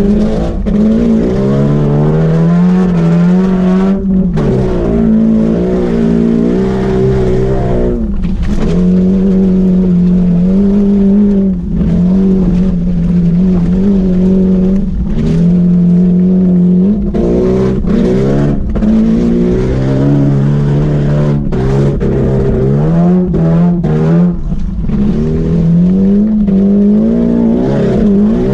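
Opel Astra II engine heard from inside the cabin under hard driving, its revs climbing and dropping again and again.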